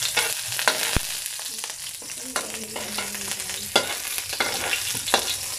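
Chopped garlic sizzling in hot oil in a steel wok, stirred with a metal spatula that scrapes and taps against the pan at irregular moments over the steady sizzle.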